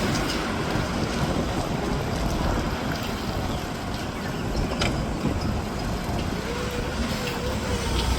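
A forklift engine runs under steady wind buffeting on the microphone. A faint, thin whine joins in near the end.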